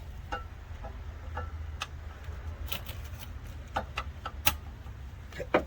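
Irregular sharp metallic clicks and taps of a line wrench working the brake line fittings on a master cylinder, over a low steady hum.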